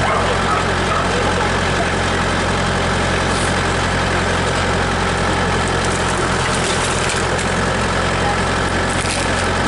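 Tractor engine running steadily at a constant speed, a low even engine hum with no change in pitch.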